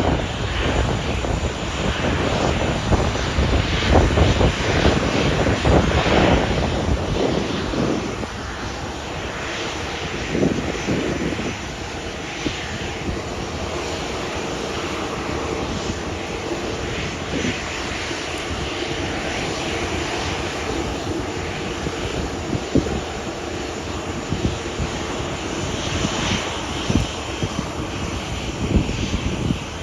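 Boeing 737 airliner's jet engines on landing approach, a continuous rumble and roar, loudest in the first eight seconds and then steady.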